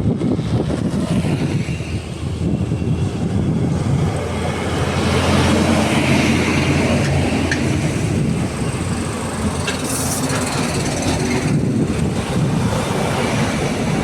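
A heavy truck's engine running steadily, with road and traffic noise that swells about a third of the way through.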